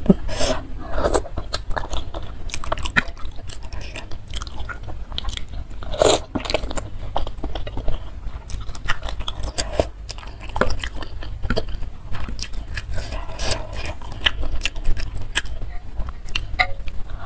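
Close-miked eating of spicy noodle soup with egg and boneless chicken feet: chewing and biting, with many short wet clicks and smacks from the mouth.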